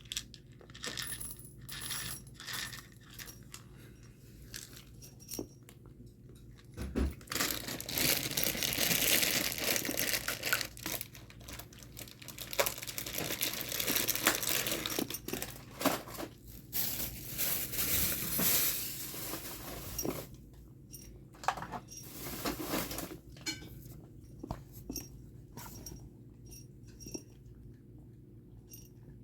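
Cat food being handled for a meal: small hard clicks and clinks, with a long stretch of rustling and pouring noise in the middle.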